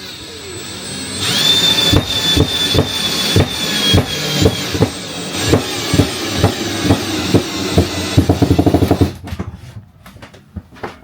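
A cordless drill-driver running and driving a screw, its motor whine slowly dropping in pitch, with irregular knocks along the way. Near the end its clutch ratchets in rapid clicks as the screw seats, then it stops.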